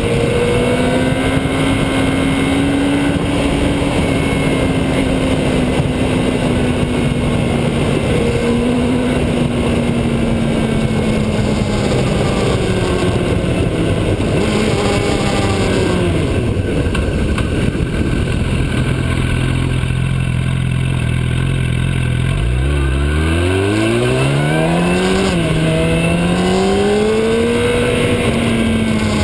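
Motorcycle engine running under way over a steady rush of wind noise. About two-thirds through, the revs settle lower, then climb again in rising sweeps with a short break, like a gear change, partway up.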